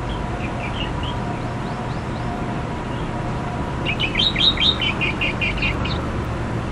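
A songbird singing: a few faint chirps, then, about four seconds in, a loud quick run of about a dozen short high notes lasting about two seconds, over a steady low background noise.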